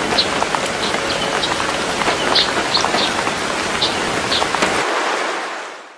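Rain falling steadily, with scattered drips pattering through it. The sound thins out about five seconds in and fades away near the end.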